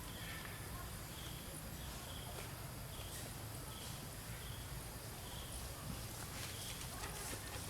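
Outdoor ambience with a short, high chirp repeating about once a second over a steady low rumble.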